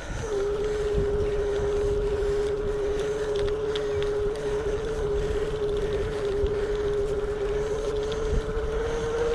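Electric bike motor whining steadily under pedal assist on a steep climb, with wind noise on the microphone. The whine drops in pitch just as it starts, holds steady, then rises a little near the end.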